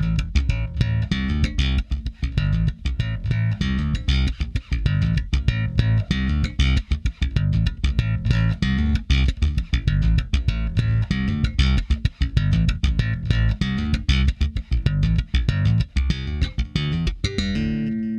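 Electric bass guitar playing a busy, rhythmic line, run through a tube-preamp channel strip plugin for saturation. It ends on a held note that rings near the end.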